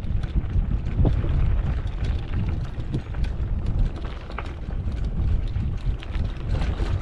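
Wind rumbling on the microphone of a moving mountain bike, with scattered clicks and rattles from the tyres and bike on a dirt track.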